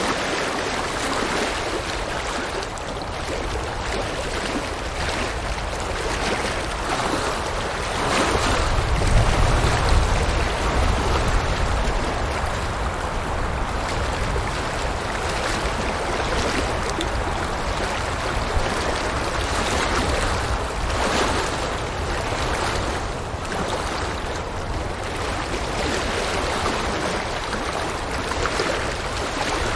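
River water rushing steadily. It grows louder and deeper for a few seconds about eight seconds in, then settles back.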